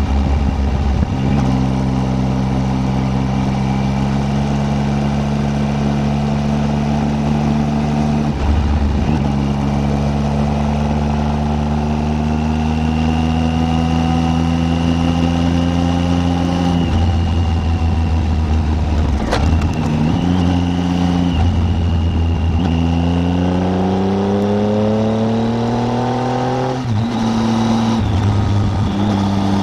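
Triumph Tiger 800's three-cylinder engine under way, holding fairly steady revs for long stretches with several breaks where it changes gear. Near the end it climbs steadily through the revs, then drops as it shifts up.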